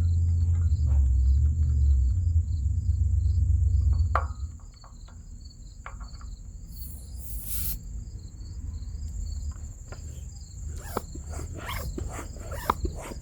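Insects chirping, about three to four chirps a second over a steady high buzz. A loud low rumble runs under them and stops about four seconds in, and scattered clicks and knocks come near the end.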